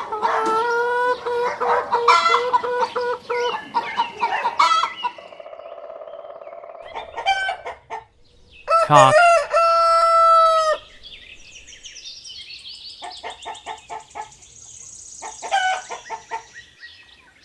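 A hen clucking and cackling in quick repeated calls for about five seconds, then a rooster crowing once about nine seconds in, one long call of about two seconds, followed by faint high chirping.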